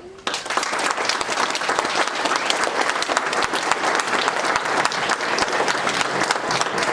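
Audience applauding as the choir's final note ends, the clapping breaking out suddenly just after the start and continuing dense and steady.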